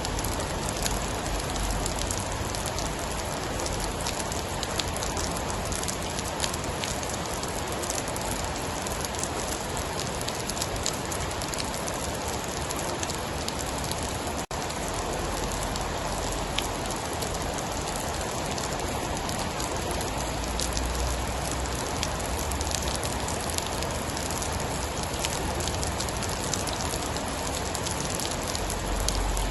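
Steady heavy rain, an even hiss of falling water scattered with small sharp ticks. A low rumble swells for a few seconds about two-thirds of the way in, and the sound cuts out for an instant about halfway.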